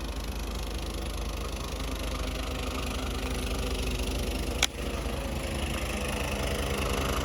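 Small engine of a snowblower running steadily while clearing snow. A sharp click sounds once, a little past halfway.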